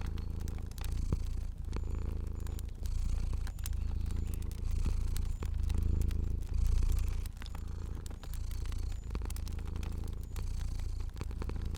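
Domestic cat purring steadily, the purr swelling and dipping with each breath about once a second. Sparse sharp crackles of a fire sound over it.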